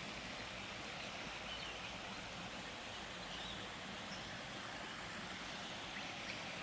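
Steady rushing of a flowing creek, an even hiss without pauses.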